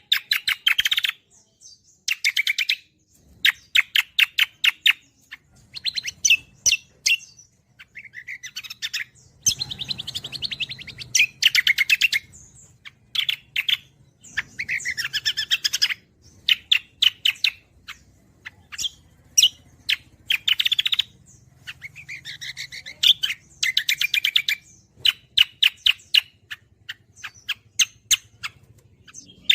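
Cucak kombo songbird singing at full pitch, rapid chattering bursts of sharp repeated notes with short gaps between them. A faint low hum runs underneath.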